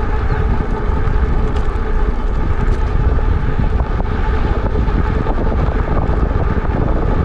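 Wind buffeting the microphone of a rider moving at speed on an e-bike: a steady, loud low rumble.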